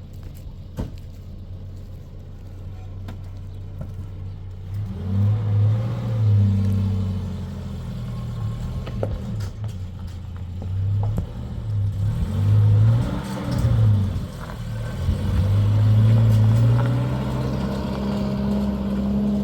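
A motor vehicle's engine running under load, its pitch rising and falling several times as it revs. There are scattered rattling knocks in the first few seconds.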